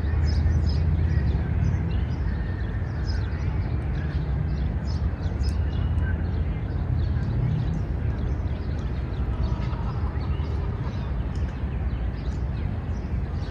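City park ambience: a steady low rumble of city traffic, with small birds chirping often over it and faint distant voices.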